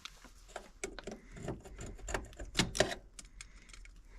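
Irregular small clicks and taps of wire spade connectors being worked onto the tight terminals of a replacement HVAC blower relay, the loudest a close pair a little over two and a half seconds in.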